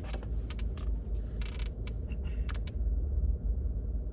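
Steady low rumble in a car cabin, with a few short clicks and a brief rustle in the first couple of seconds that fade out, leaving only the rumble.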